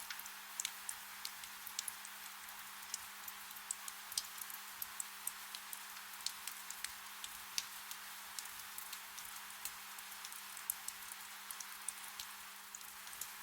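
Soft rain: a steady hiss of rainfall with many scattered individual drops ticking sharply at irregular moments. A faint steady low hum lies beneath it.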